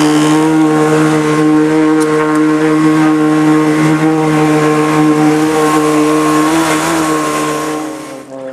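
A motor running steadily at speed on the water, a strong even hum that eases off and drops in pitch about eight seconds in.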